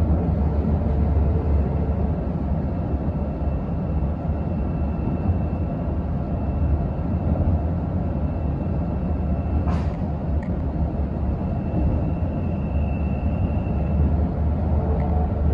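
Running noise heard inside an electric commuter train travelling at speed: a steady low rumble with a faint steady high whine over it. A single short sharp noise cuts through about ten seconds in.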